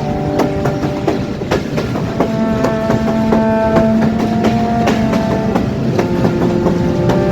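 A train running on the rails, its wheels clacking over the rail joints, with background music of held guitar-like notes over it.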